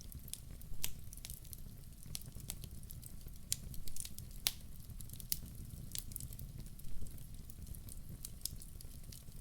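Fire in a fireplace crackling: irregular sharp pops and snaps, a few louder ones, over a low steady rumble.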